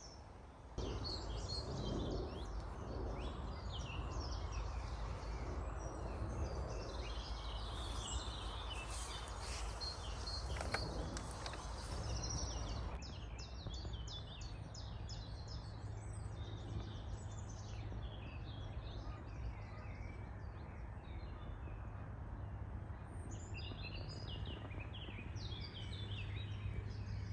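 Woodland birds singing, many short chirps and song phrases overlapping, over a steady low rumble of outdoor background noise.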